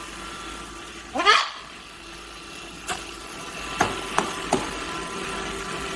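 A parrot gives one loud rising call about a second in, followed by a few sharp clicks, over a steady background hum.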